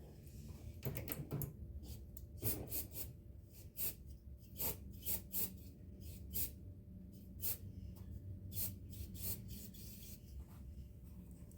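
Faint, irregular short scrapes and clicks, about one or two a second, of hand tools and parts being handled under a car during an oil change.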